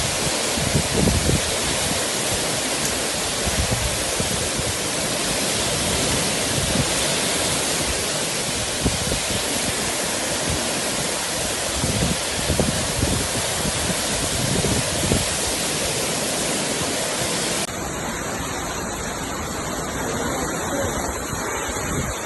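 Steady rushing of water, with low thumps of wind buffeting the microphone. About 18 s in the sound cuts abruptly to a thinner, quieter recording of the same kind of rush.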